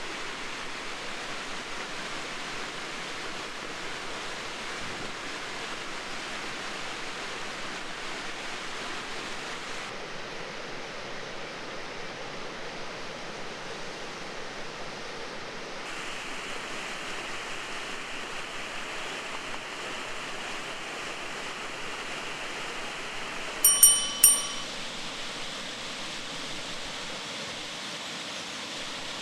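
Steady rushing outdoor background noise, with three bright, ringing metallic clinks in quick succession near the end, like a metal utensil striking cookware.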